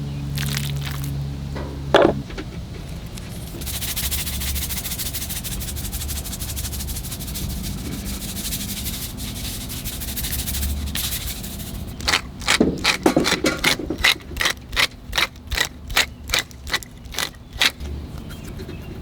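Cooking sounds: a steady hiss for several seconds, then a run of sharp regular strokes, about two or three a second. A single sharp click comes about two seconds in.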